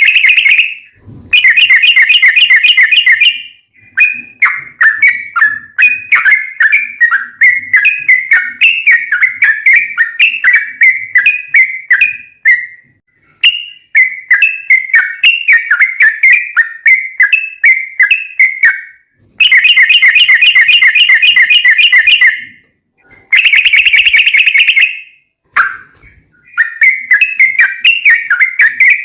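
Yellow-vented bulbul (trucukan) song, loud and continuous: bursts of rapid, fast-repeated chattering notes alternate with long runs of bubbly, rising-and-falling warbled phrases, broken by short pauses.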